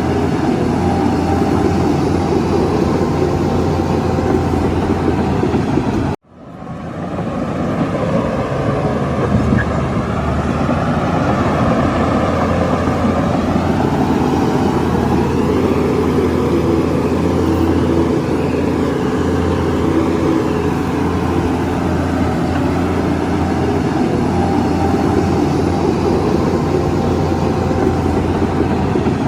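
Heavy diesel earthmoving machinery (bulldozer and dump truck engines) running steadily under load. The sound cuts out abruptly about six seconds in and fades back up.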